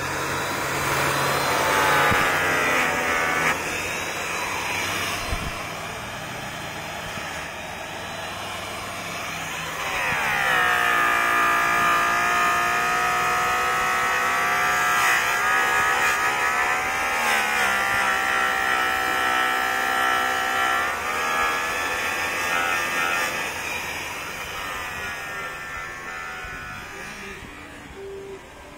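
A high-speed electric metal polisher whining as it runs. Its pitch shifts markedly about a third of the way in, holds steady for a while, then changes again before fading near the end.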